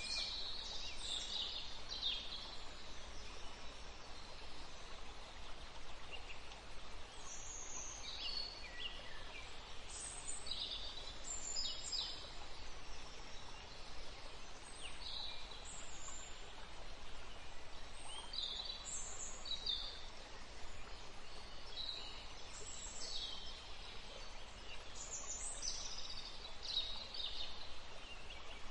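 Birds chirping: short high calls every second or two, over a steady soft hiss of outdoor ambience.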